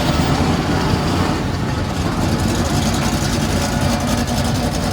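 Vehicle engine idling with a low, steady rumble.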